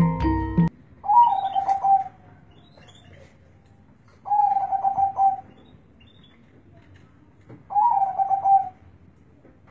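Zebra dove (perkutut) cooing: three cooing phrases, each about a second long, spaced about three seconds apart.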